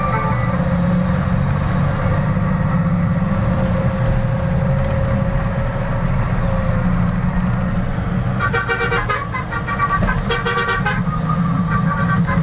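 Truck engine running steadily on the road with a low rumble. About eight and a half seconds in, a vehicle horn sounds in a quick run of short honks lasting a couple of seconds, and it honks again briefly near the end.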